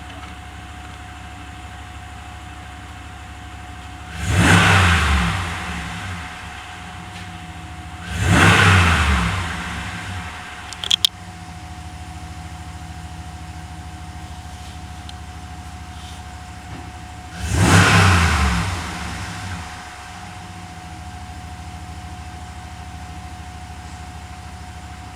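2019 Ram 5.7 L Hemi V8 idling, blipped up three times, each rev falling back to idle over about two seconds. A steady thin whine runs under the idle, and a couple of brief clicks come between the second and third revs.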